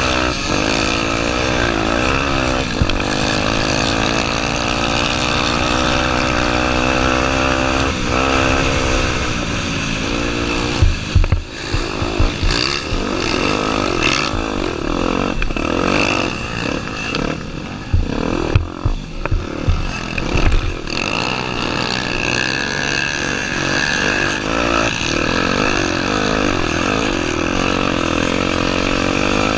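Honda Tornado 250's single-cylinder four-stroke engine revving up and down as the motorcycle is ridden. In the middle stretch the engine note breaks up among irregular heavy thumps and knocks.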